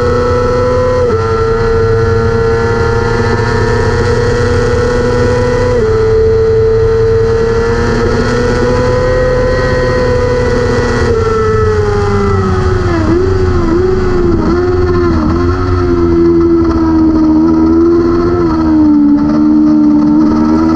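600 superbike racing motorcycle engine at high revs. Its pitch drops briefly at two gear changes in the first six seconds, then falls off about halfway through, with a quick series of dips and blips, before rising again near the end.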